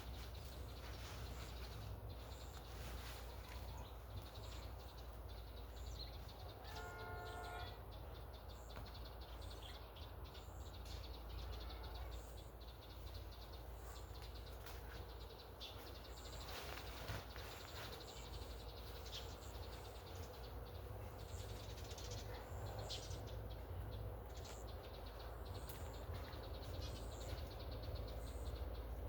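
Outdoor rural ambience: small birds chirping and twittering over a low steady rumble, with a brief call about seven seconds in.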